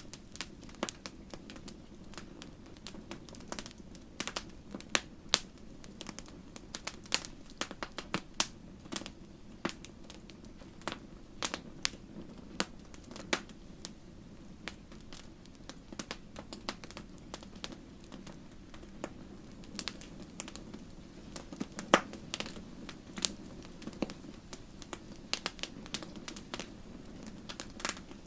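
Wood campfire crackling: irregular sharp pops and snaps over a low steady background of the burning fire, with one louder pop about three-quarters of the way through.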